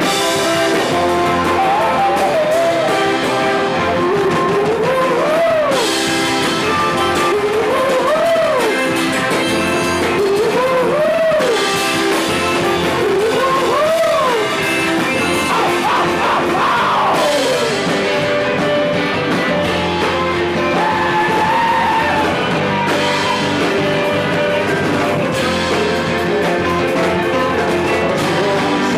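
A live rock band playing a song: electric guitar and drum kit with singing, and a line that repeatedly swoops up and back down in pitch.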